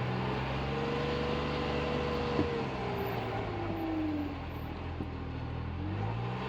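Polaris Ranger 1500 side-by-side's three-cylinder engine running, with a whine that drops in pitch in the middle and rises again near the end. A sharp knock or pop comes about two and a half seconds in, and a fainter one about five seconds in: the knock/popping noise the owner is trying to track down.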